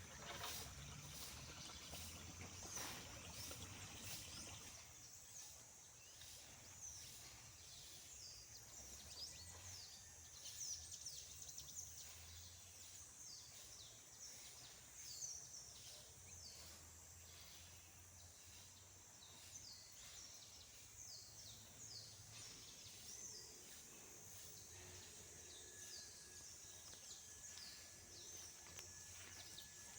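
Faint outdoor ambience: small birds chirping, many short high calls that fall in pitch, over a steady high hiss.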